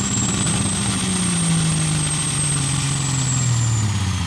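Pro Stock semi truck's diesel engine under full load pulling the sled, its pitch sinking steadily as the engine lugs down. A high whistle rises and then falls over it.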